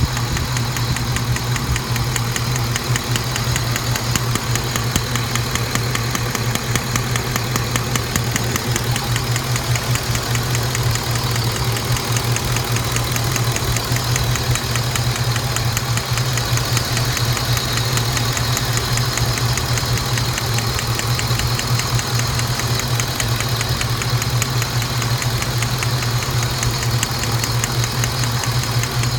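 Saab 9-7x engine idling steadily with a rapid, even clicking, a click the owner links to a recent spark plug install.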